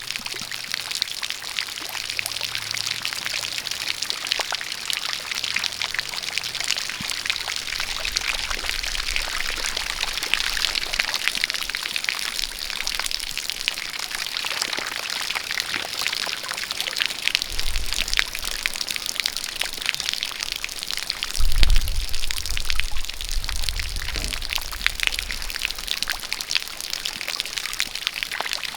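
Rain falling in a dense patter of drops, with a steady stream of water pouring from a spout. A low rumble swells briefly past the middle and again, louder, a few seconds later.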